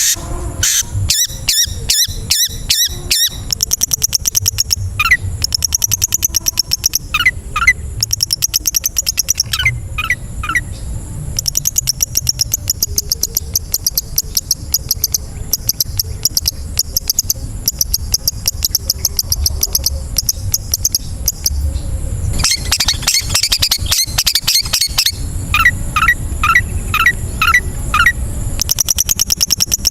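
Long-tailed shrike (cendet) song: fast rattling trains of short high notes mixed with runs of quick down-slurred whistles, going on without a break.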